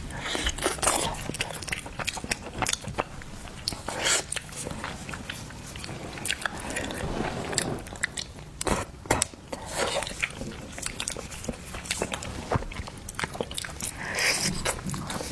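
Close-miked eating of seafood: irregular biting, crunching and chewing, with many sharp crackling clicks.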